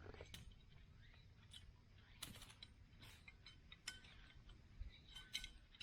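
Scattered light clicks and taps of small camping gear being handled, with a few short metallic clinks near the end.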